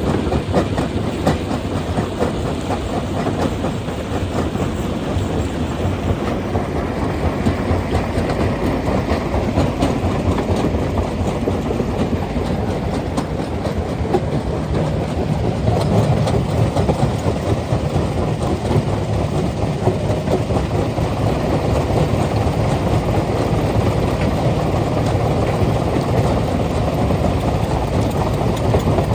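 Stone-crushing machine running steadily under load, with a continuous clatter and rattle of rock breaking and tumbling through it over a deep mechanical rumble.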